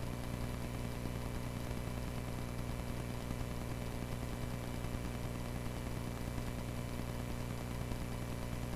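Cessna 140A's piston engine and propeller droning steadily in flight, a low, even hum that does not change.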